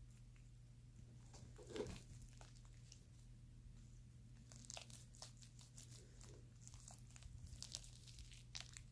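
Faint, irregular sticky crackles and squelches of fluffy slime, made with glue and shaving cream, being worked by hand, a little busier in the second half, over a low steady hum.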